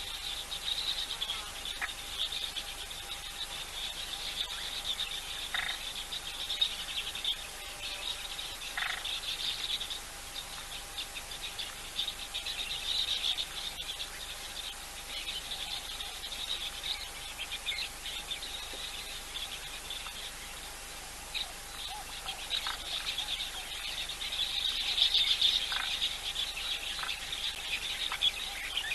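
Waterhole ambience: a steady, high, pulsing chorus of frogs and insects, swelling twice, with scattered short chirping calls and a faint steady hum underneath.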